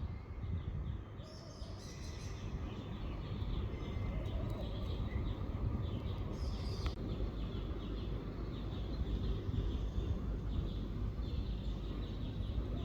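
Several songbirds singing, with many short high chirps repeating throughout, over a steady low rumble.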